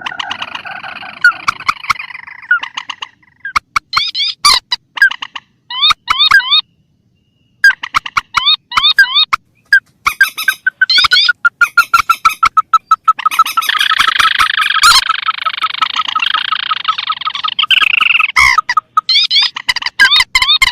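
Recorded rail calls, swamphen and crakes, played as a bird-trapping lure: rapid runs of short rising notes and ticks. There is a brief pause about a third of the way in, and a longer unbroken stretch of chattering calls after the middle.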